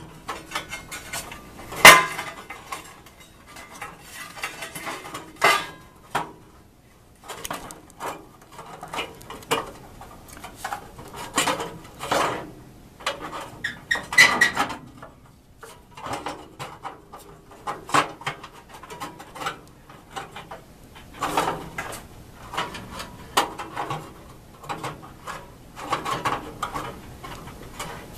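Thin sheet-metal clattering and knocking as the gas water heater's burner access doors are handled and fitted back in place: irregular clanks and rattles throughout, the sharpest about two seconds in.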